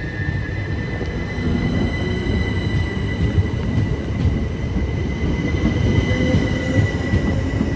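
A train running close by: a steady low rumble with a thin, high whine held over it.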